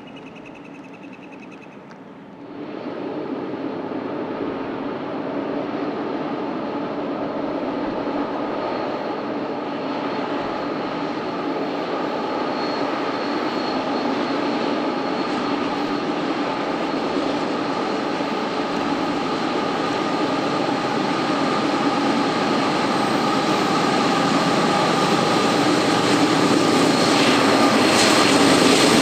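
Diesel freight locomotives working hard under load as a train climbs a grade: a steady engine drone with a high whine that sets in about two seconds in and grows gradually louder as the train approaches.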